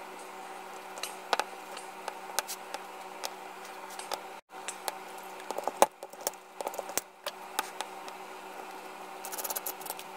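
Wooden pieces being handled and knocked together, with irregular sharp clicks and knocks and a quick run of small ticks near the end, over a steady shop hum.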